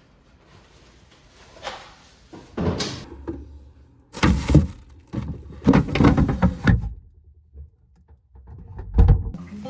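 A series of irregular knocks, thumps and scrapes in a small room, the loudest between about four and seven seconds in, and a heavy thud near the end.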